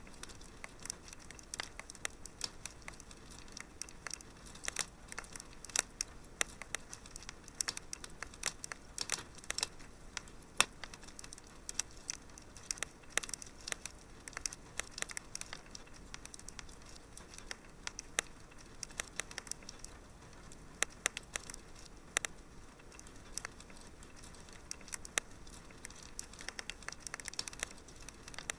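Wood fire in a fireplace crackling: irregular sharp pops and snaps, several a second, over a faint steady hiss.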